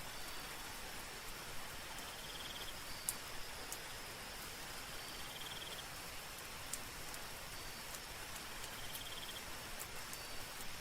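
Soft rain falling steadily, an even hiss with scattered sharp drop ticks. Over it, a night creature gives a short high chirping trill three times, about three seconds apart.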